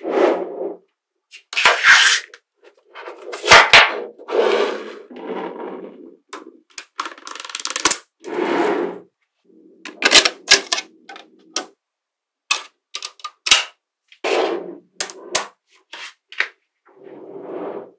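Small magnetic balls clicking and snapping together, with short stretches of clattering as clusters of balls roll and rattle against each other, in irregular bursts with brief pauses between.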